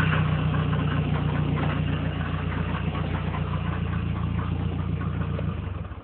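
Nissan CA18DET turbocharged 1.8-litre four-cylinder engine idling with a fast, light repeated knocking; the owner asks whether it is engine knock. The engine stops near the end.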